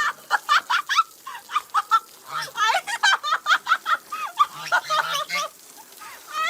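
Chickens calling in a rapid run of short, squawking clucks.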